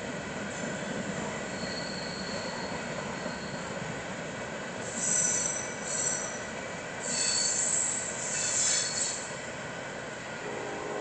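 A freight train rolling past with a steady rumble of cars on the rails, its wheels squealing high-pitched on and off, loudest about halfway through and again a couple of seconds later.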